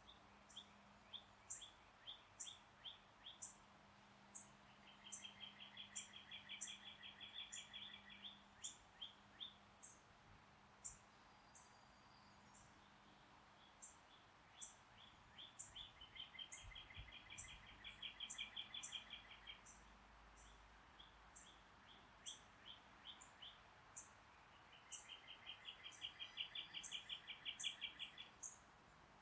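Songbirds singing. One bird sings three times, each song a series of separate notes that speeds up into a rapid trill. High, thin chirps repeat a couple of times a second throughout.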